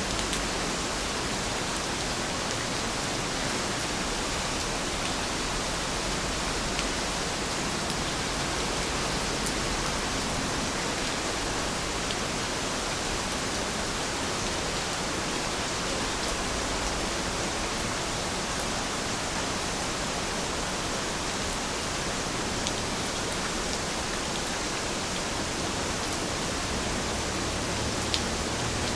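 Heavy rain falling steadily, an even hiss of countless drops with a few sharper drop ticks, one more distinct near the end.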